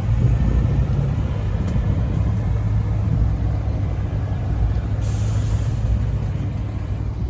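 Car engine running with a steady, deep low rumble from the exhaust, and a brief faint hiss about five seconds in.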